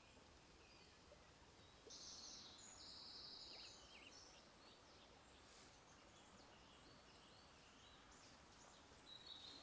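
Faint songbirds singing: a fast, high trill about two seconds in lasting over a second, and scattered short chirps, loudest again near the end, over a faint outdoor hiss.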